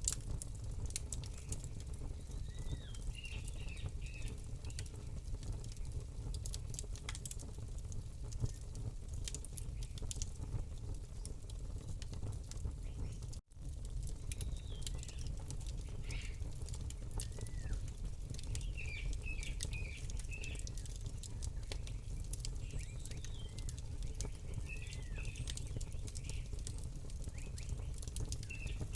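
Campfire crackling, with frequent sharp pops over a low steady rumble, and small birds chirping in short quick phrases every few seconds. The sound cuts out for an instant about halfway through.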